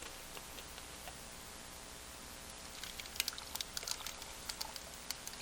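Freshly opened Sparkling Ice sparkling water fizzing, with many small crackling bubble pops starting about three seconds in.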